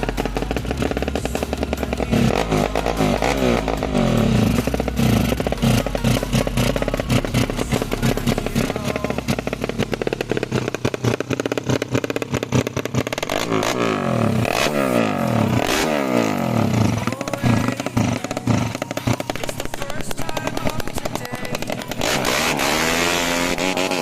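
Tuned Yamaha Jupiter 130 cc single-cylinder four-stroke motorcycle engine being revved again and again. Its pitch rises and falls with each blip of the throttle, and it is held at high revs near the end.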